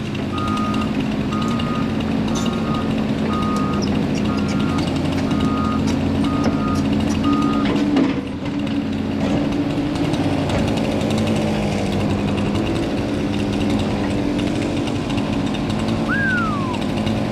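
A Cat tracked excavator's diesel engine runs steadily while its travel alarm beeps about twice a second for the first seven or so seconds. A sharp knock comes about eight seconds in, and a short falling whistle near the end.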